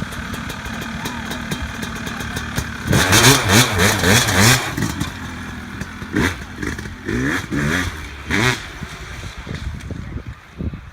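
Honda ATC200 three-wheeler with a swapped-in 250 cc two-stroke engine, idling, then revved in quick bursts about three seconds in with the pitch rising and falling, followed by a few shorter throttle blips.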